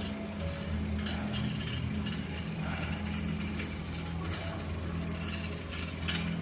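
Bicycle freewheel ratchet ticking as the bike coasts, with scattered clicks over a steady low hum.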